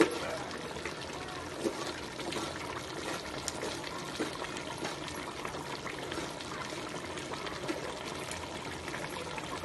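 Water pouring or running steadily, with a light knock at the start and another a little under two seconds in.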